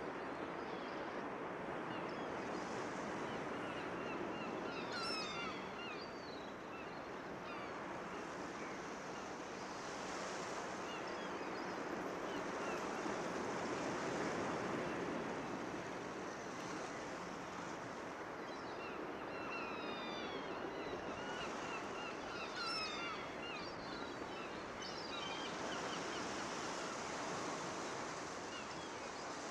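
Ocean waves washing onto a beach, swelling and easing, with bursts of bird calls twice, about five seconds in and again around twenty seconds in: a seaside soundscape.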